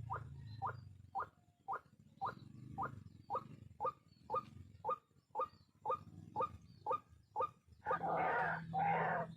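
White-breasted waterhen calling: a regular run of short, clipped notes about two a second, breaking into louder, denser, harsher calls about eight seconds in.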